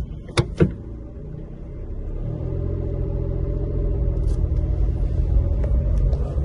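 Two sharp clicks, then a small Suzuki car's engine running with a low rumble heard from inside the cabin, growing louder from about two seconds in.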